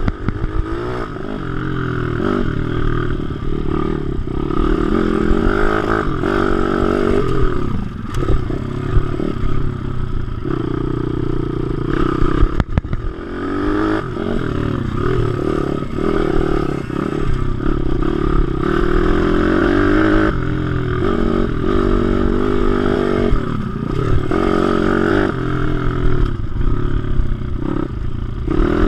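WPB 155 pit bike's single-cylinder four-stroke engine revving hard and dropping off again and again while ridden around a track, its pitch climbing through each gear and falling off into the corners.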